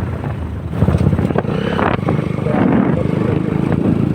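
Honda CBR150R's single-cylinder four-stroke engine running steadily as the bike is ridden.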